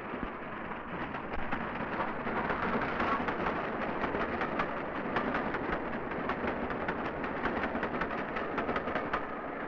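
Train running at speed: a steady rushing noise with a rapid, irregular clatter of wheels over rail joints and points, growing busier from about a second in.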